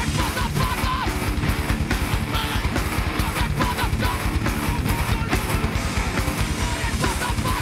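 Hardcore band playing live and loud: distorted electric guitars over drums, with a fast, even kick-drum pulse.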